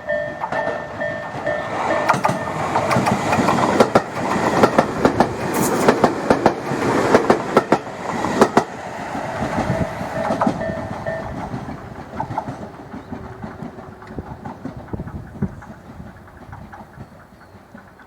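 Tobu 20400 series electric train running over jointed track, its wheels clacking rhythmically over the rail joints. It is loudest in the middle and then fades as it runs away. A thin steady whine is heard at times.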